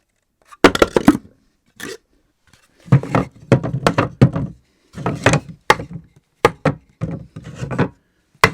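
Objects dropped onto a floor, landing and clattering in several irregular bursts of quick knocks, with gaps between the bursts.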